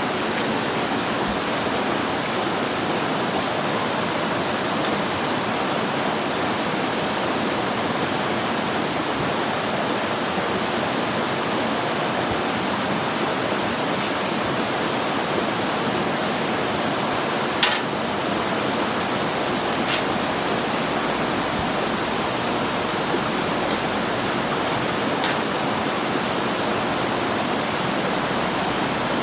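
A steady rushing noise at an even level, with a few sharp clicks; the loudest click comes a little past halfway.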